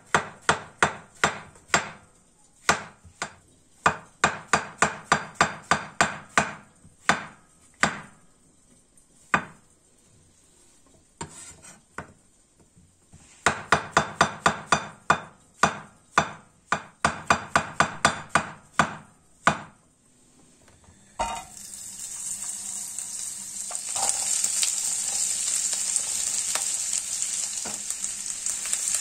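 A fork beating eggs in a bowl: quick runs of sharp clinking strokes against the bowl, with short pauses. About three quarters of the way in, the mixture hits a hot pan and starts a steady sizzle.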